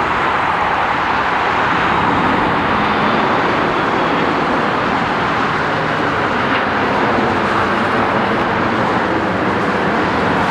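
Loud, steady aircraft engine noise, an even rushing sound with no breaks.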